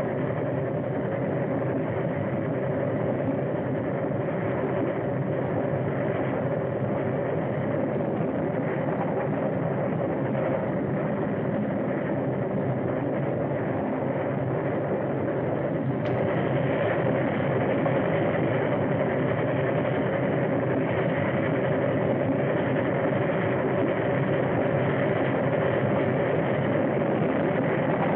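Steady running noise of a moving train. A single click about 16 seconds in, after which it is slightly louder.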